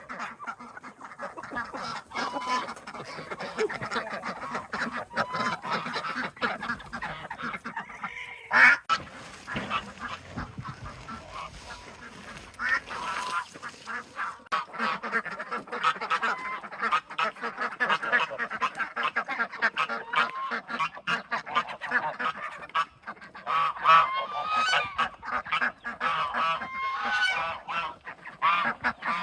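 A flock of chickens calling and squawking over one another in many short overlapping calls, as they are let out for the morning. There is one loud sharp sound about nine seconds in.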